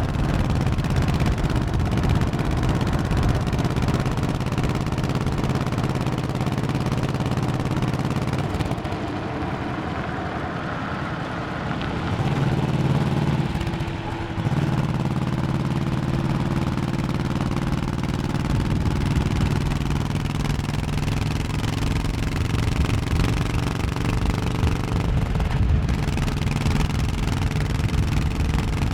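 Honda 1100cc V-twin motorcycle engine running under way on the road. It eases off and goes quieter about eight seconds in, picks up again, dips briefly near the middle, then runs steadily.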